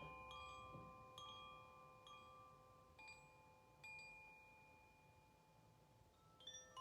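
Faint metal chimes ringing: a few struck notes at different pitches overlap and slowly fade, then a fresh cluster of strikes starts near the end.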